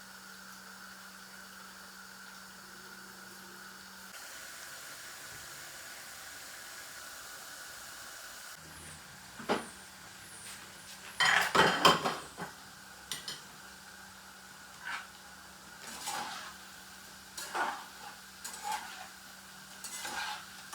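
Kitchen utensils and dishes clinking: a few sharp clinks, a brief loud clatter about halfway through, then several separate clinks, over a faint steady hum.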